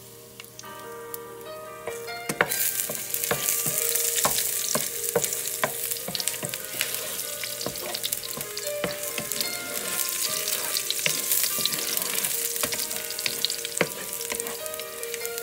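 Sliced garlic and dried red chillies sizzling in hot oil in a nonstick frying pan, with a wooden spoon stirring and scraping through them. The sizzle is quieter at first and swells up about two and a half seconds in, with crackles and spoon clicks throughout.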